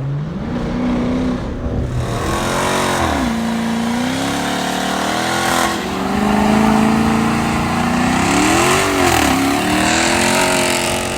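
A car engine revving, its pitch climbing and dropping back several times between steadier stretches.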